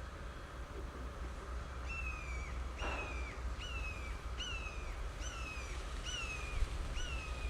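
A bird calling over and over: starting about two seconds in, about seven clear, slightly falling calls come at an even pace, a little under one a second, over a steady low rumble.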